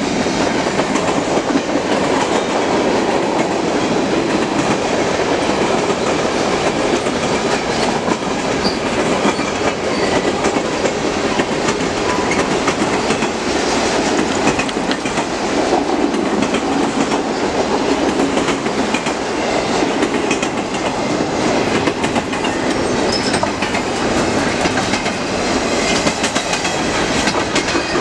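Cars of a CN mixed freight train rolling steadily past close by: covered hoppers, autoracks and double-stack container cars. Wheels run on the rail with a continuous rush and rapid clicking over the rail joints.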